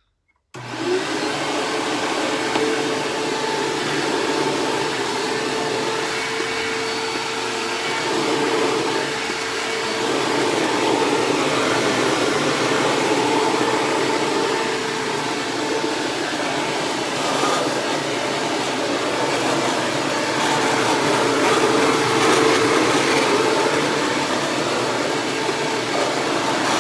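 Hoover WindTunnel self-propelled upright vacuum switched on about half a second in, its motor spinning up with a brief rising whine and then running steadily as it vacuums shredded paper from carpet.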